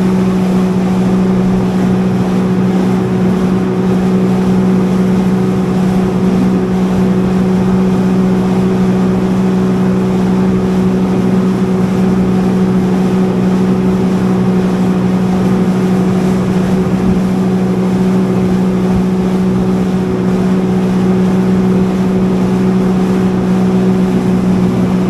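Jet ski engine running at a steady cruising speed: a constant drone that holds one pitch without revving up or down, with a hiss of noise under it.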